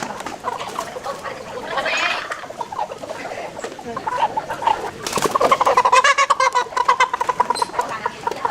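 Chickens clucking, with scattered calls at first that turn into a dense run of rapid clucks about five seconds in.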